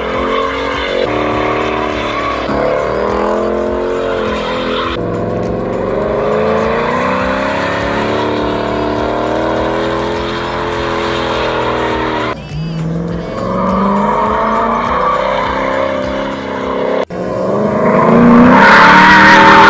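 Dodge Charger Daytona's 5.7-litre HEMI V8 revving up and down under load while the rear tyres spin and squeal through donuts. It cuts abruptly a few times and gets louder near the end, with music underneath.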